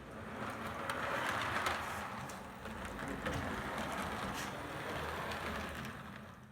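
Model railroad locomotive running along the track: a steady whirring motor and gear noise with many light clicks of wheels over rail joints. It swells in at the start and stops abruptly at the end.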